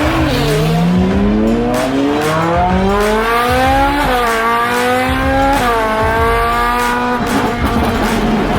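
Supercar engine accelerating hard, its revs climbing steadily with two quick upshifts about four and five and a half seconds in, then backing off near the end, leaving a steady rush of road noise.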